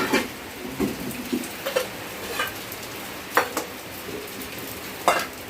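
Steady rain hissing, with a handful of sharp clinks and knocks of pots and utensils being handled, the loudest two near the middle and near the end.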